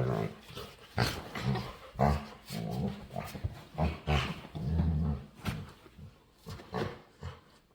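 A dog making low, grumbling growl-like noises in a string of short bursts, the playful vocalising of a dog begging to play. The noises die away after about five seconds, leaving a few soft clicks.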